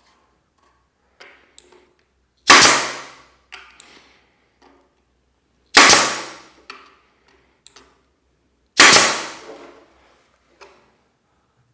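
Nail gun firing three times, about three seconds apart. Each shot is a sharp bang that rings out for about a second, with light clicks of handling between shots.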